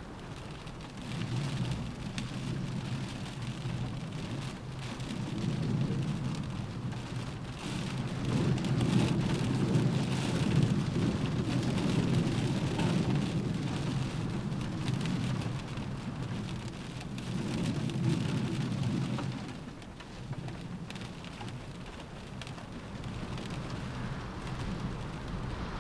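Rain pattering on a window pane, with many fine drop ticks, over a low rumble of gusting wind. The gusts swell from about a second in, are strongest in the middle, and ease near the end.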